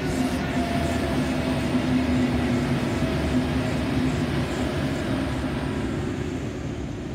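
V/Line VLocity diesel railcar set passing close by, a steady droning hum over the rumble of its wheels on the rails. It is loudest about two seconds in and fades near the end as the train moves off.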